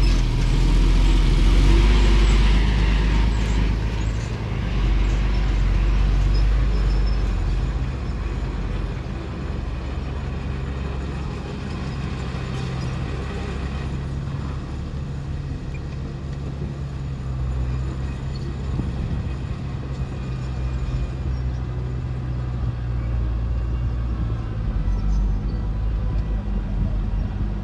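Heavy diesel engine of earthmoving machinery running, louder over the first several seconds with a rushing noise on top, then settling to a steady lower drone.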